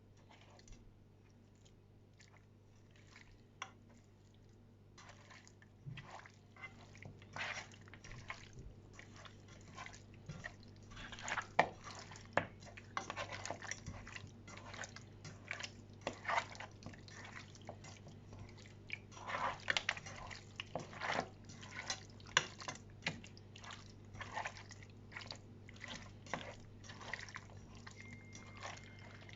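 Kitchen cooking sounds: irregular small clicks and crackles, sparse at first and much denser from about five seconds in, over a steady low hum.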